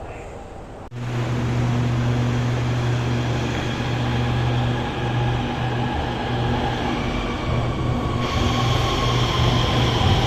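Guangzhou Metro Line 21 train at the platform: a loud steady electric hum with higher held whining tones. The sound starts abruptly about a second in, and more high hiss joins near the end.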